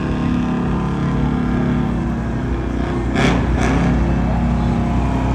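GMC V8 race truck engine running steadily, with two short hissing bursts a little past halfway, after which it runs slightly louder.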